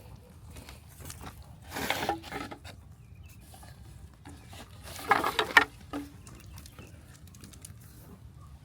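Farm animals calling: two short calls about three seconds apart, with faint pattering clicks of animals moving or feeding between them.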